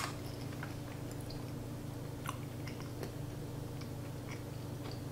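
Someone tasting a spoonful of creamy spinach artichoke dip: a click of the spoon at the mouth at the start, then quiet chewing with faint scattered mouth clicks. A steady low hum runs underneath.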